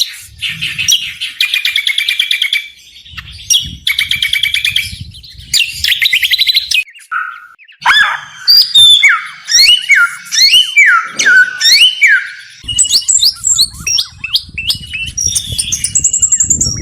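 Small songbird singing a busy, varied song: fast rattling trills at first, then a string of sharp down-slurred whistled notes, and a high held whistle near the end.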